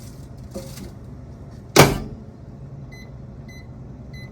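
Microwave oven running with a steady hum, a single sharp knock about two seconds in, then three short electronic beeps near the end.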